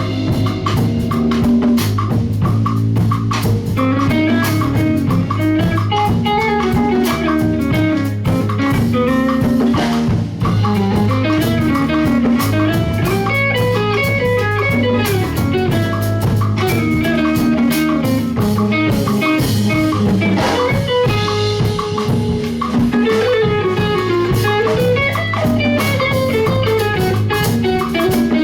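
Live band playing an instrumental groove: guitar picking a melodic line over bass and drum kit with busy percussion.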